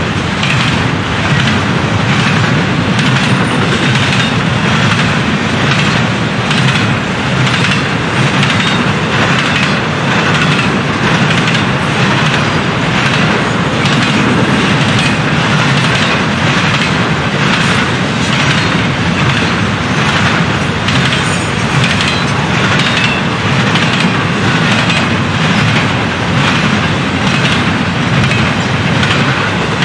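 Double-stack intermodal freight train's well cars rolling past at steady speed, loud and continuous. The steel wheels click regularly over the rail joints.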